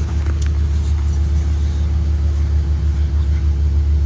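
2023 Blue Bird Vision school bus under way: a steady low rumble of engine and road noise with a constant hum, and a couple of light ticks just after the start.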